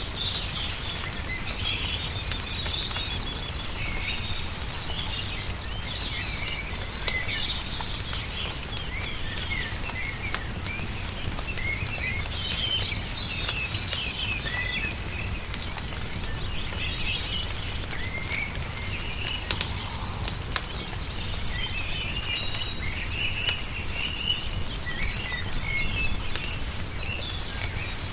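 Small songbirds chirping and twittering continuously over a wood fire crackling with scattered sharp pops, and a steady low rumble underneath.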